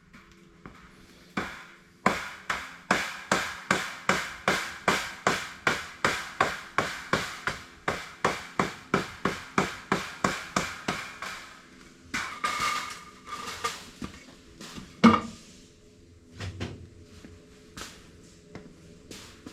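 Hammer striking, about three even blows a second for roughly ten seconds, then a short scraping sound and a single loud knock.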